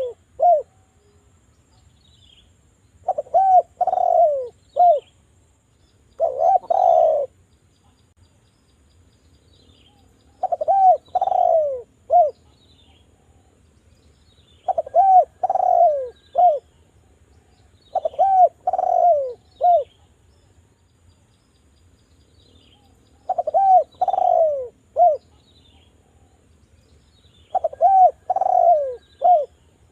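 Spotted dove (derkuku) cooing: seven phrases of three or four falling coo notes each, repeated every three to four seconds.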